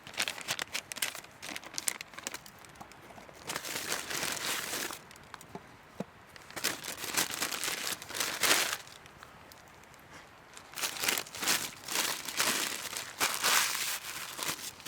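Crinkling and rustling of something being handled, in four bouts of a second or few each with short pauses between.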